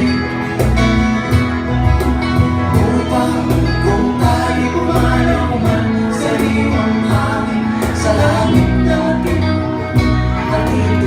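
Live acoustic band playing a song: strummed and picked guitars, bass and keyboard over a steady beat, with a singer's voice.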